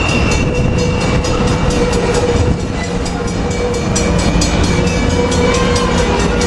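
Amtrak Pacific Surfliner passenger train rolling in along the platform, cab car leading, with wheels clicking rapidly over the rail joints and a steady high squealing tone as it brakes.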